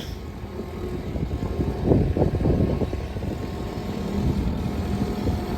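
Skid steer engine running steadily as it drives straight ahead, getting a little louder about two seconds in.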